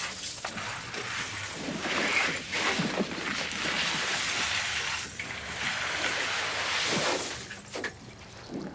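Meltwater river rushing through a tunnel inside a glacier, with irregular splashes and sloshes.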